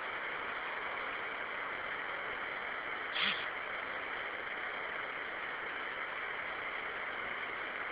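Steady hiss of rain falling during a thunderstorm, with one brief higher-pitched sound about three seconds in.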